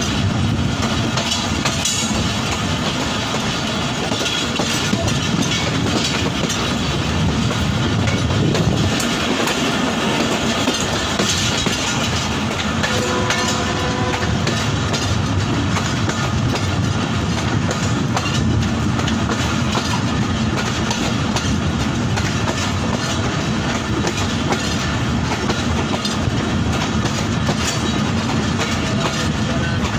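Pakistan Railways Karakoram Express passenger coaches running at speed, the wheels clacking over the rail joints under a steady rush of wind, heard from an open carriage window.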